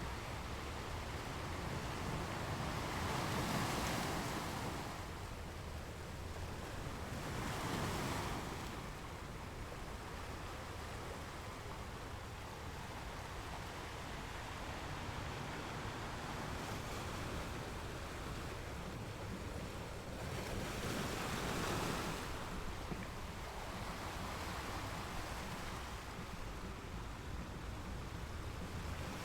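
Ocean waves washing ashore in a steady hiss, with three larger waves swelling and breaking: one a few seconds in, one about eight seconds in, and one past the twenty-second mark.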